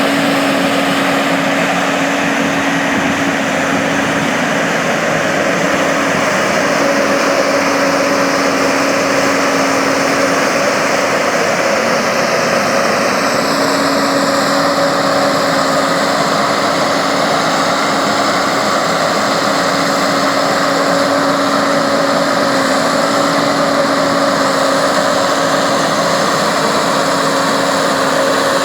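John Deere tractor's diesel engine running steadily at a constant speed, as when pulling a subsoiler through the ground.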